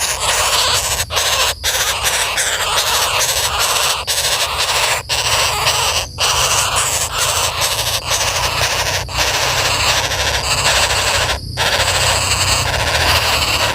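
Common flameback woodpeckers giving harsh, rasping calls almost without pause, broken only by brief gaps. These are the agitated calls of birds whose nest has been disturbed.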